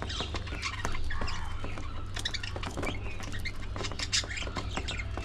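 A flock of budgerigars chattering and chirping together in a dense stream of short, quick calls, with a steady low hum underneath.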